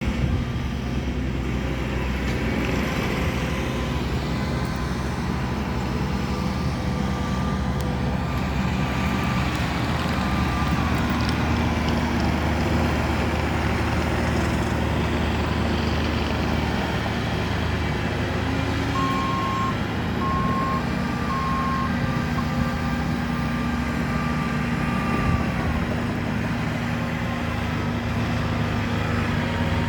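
Engines of a compact tractor and a skid steer running steadily under load while moving dirt, with a backup alarm giving three short beeps about two-thirds of the way through.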